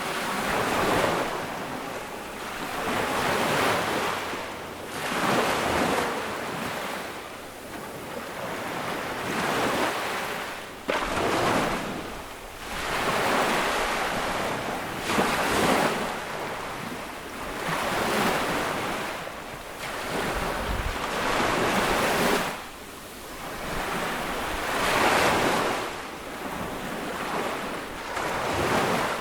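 Small sea waves breaking and washing up a beach, one after another, each a rising and fading hiss every two to three seconds.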